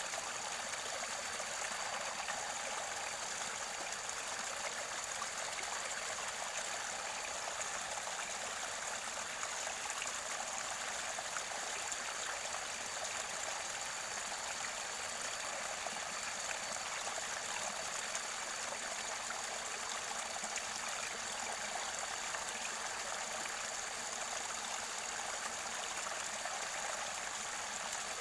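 Mountain stream near its spring source, gurgling and flowing steadily, with a faint steady high-pitched tone over it.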